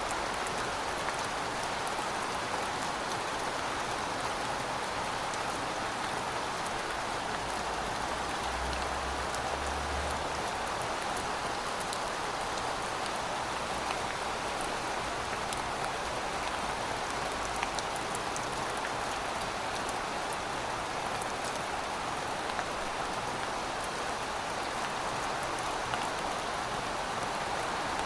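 Heavy rain falling steadily: a dense, even hiss of rainfall with many fine drop ticks through it.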